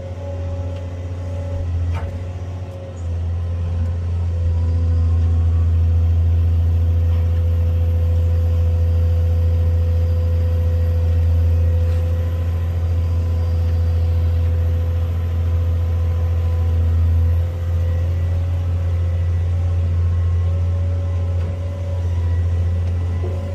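Cat 385C excavator's diesel engine working hard under load, heard from inside the cab: a loud, deep, steady drone. It swells a few seconds in, dips briefly past the middle, and falls away at the end.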